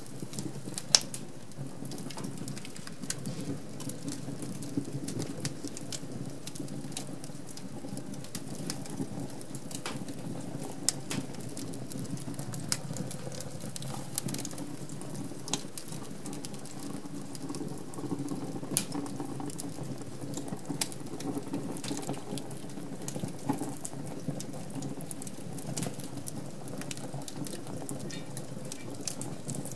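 Wood fire burning in a fireplace: a steady low rush of flames with frequent irregular crackles and sharp pops, a few louder than the rest.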